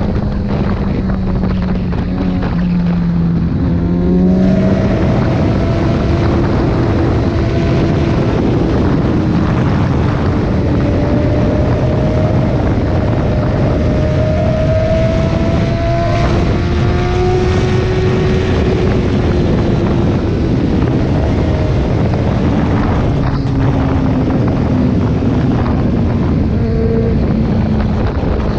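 Sport motorcycle engine running under way, with wind noise over it. Its pitch falls for the first few seconds, jumps up about four seconds in, then slowly climbs and later eases back.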